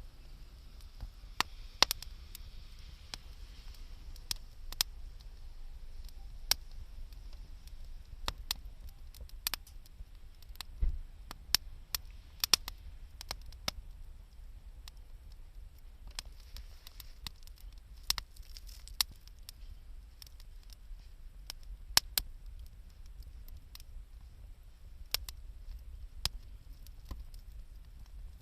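Wood fire crackling: scattered sharp pops at irregular intervals over a low steady rumble.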